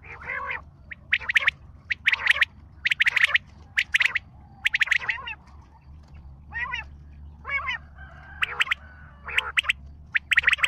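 A bird calling over and over: short, sharp, high calls in quick clusters, with a couple of quavering, warbling calls in the middle. It is a call played to attract the bird known as Chitra.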